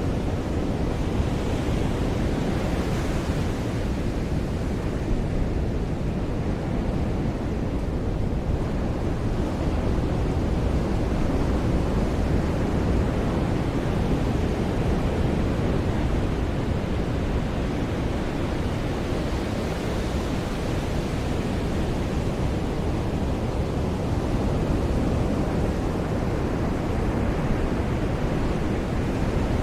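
Ocean surf washing onto a beach: a steady rushing noise that swells now and then as waves break.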